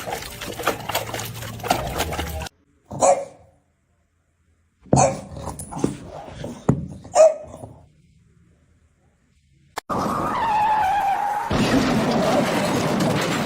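Dogs barking and yipping in short separate bursts, broken by silent gaps; from about ten seconds in, a longer call with a falling pitch over noise.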